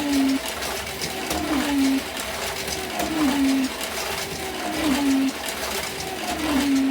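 1:32 scale slot cars racing: the small electric motors whine, dropping in pitch and then holding steady, in a pattern that repeats about every second and a half as the cars come round. Light clicking from the cars on the track runs through it.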